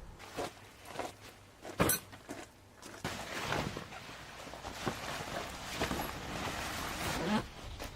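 Camping gear being handled: a few knocks, the loudest about two seconds in, then several seconds of rustling.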